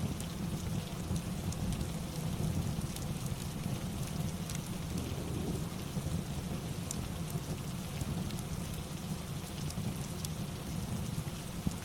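Steady rain ambience with a low rumble underneath and scattered small crackles of a fireplace.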